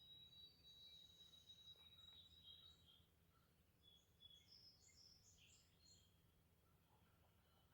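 Songbirds chirping and singing faintly, several short high calls overlapping, with a held high note in the first three seconds and a busier cluster of chirps around the middle.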